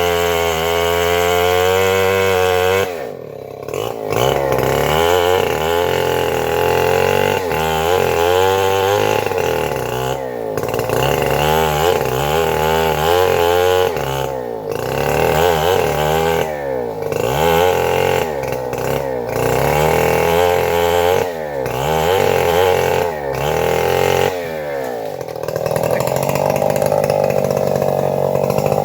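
Chainsaw running under load through a teak log, its engine pitch rising and falling again and again as the cut goes; it drops briefly about three seconds in and runs more steadily near the end.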